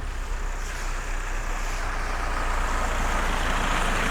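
A car driving past on a wet road, tyres hissing on the wet surface over a low engine rumble, growing slowly louder.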